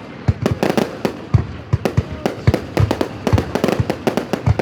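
Fireworks going off in quick, irregular succession: many sharp bangs and cracks, some with a deeper boom.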